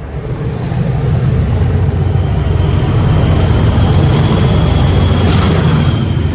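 Train passing at speed: a heavy low rumble that builds, holds loud with a faint high whine over it, and begins to fade near the end.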